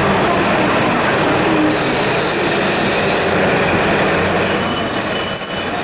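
Express train pulling slowly into the platform: a steady rumble, and from about two seconds in a high squeal in several shifting tones.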